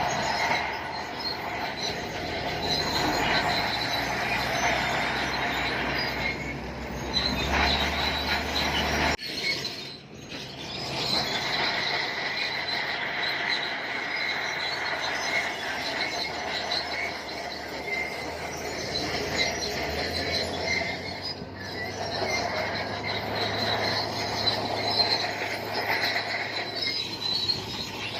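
Shantui crawler bulldozer's steel tracks squealing steadily as it moves, over the low drone of its engine. The sound breaks off abruptly about nine seconds in and resumes.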